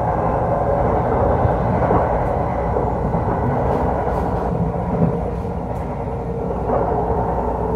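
Interior running noise of an NJ Transit Multilevel coach at speed: a steady rumble of wheels on the rails, easing slightly for about a second just past the middle.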